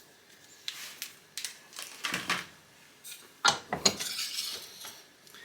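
Metal pieces clinking and scraping as they are handled, with two sharp metal knocks about three and a half seconds in.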